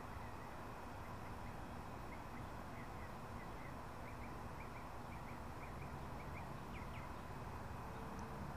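Faint outdoor ambience: a steady low hiss with a small bird's faint high chirps, a few a second, stopping about seven seconds in.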